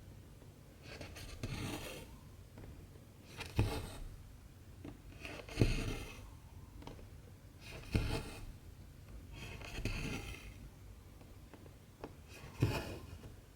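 Cross-stitch needle punched through 14-count aida fabric and cotton thread drawn through with a rasping pull. Six strokes, about one every two seconds.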